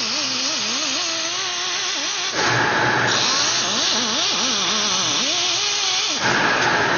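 Angle grinder with an abrasive disc running and grinding on skin to remove a tattoo, its motor pitch wavering as the disc is pressed and eased off. It gets louder about two and a half seconds in, eases, then loudens again near the end.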